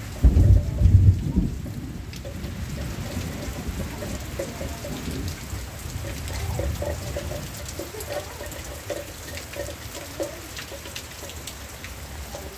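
Heavy rain falling in a thunderstorm, with a loud low rumble of thunder in the first second or two. After it the rain goes on as a steady hiss with scattered drips and taps.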